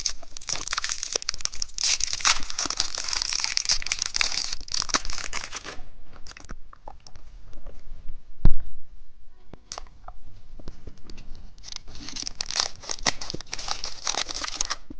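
Candy wrappers crinkling and being torn open, dense for about the first six seconds. Then come a few light clicks and one sharp knock about halfway through, and the crinkling starts again near the end.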